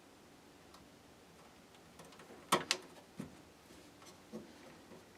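Hands working cables inside a computer case: a pair of sharp clicks about two and a half seconds in, then a few lighter knocks.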